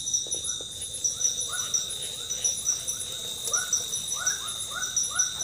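Tropical forest insects: a steady high-pitched whine with chirps pulsing about twice a second, over an animal's short arching calls repeated every half second or so.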